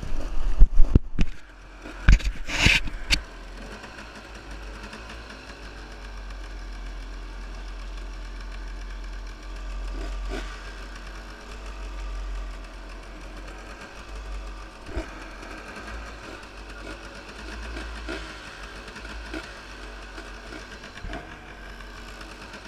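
Motorcycle engine idling steadily, with a few loud knocks from the camera being handled in the first three seconds.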